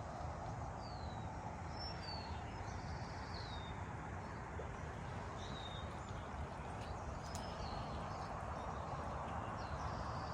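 Small birds chirping in a garden: short, high, falling chirps every second or two over a steady background hiss and low rumble.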